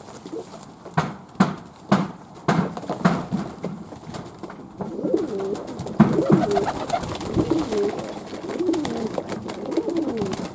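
Fantail pigeons cooing, low warbling coos that overlap and fill the second half. Several sharp knocks come in the first few seconds.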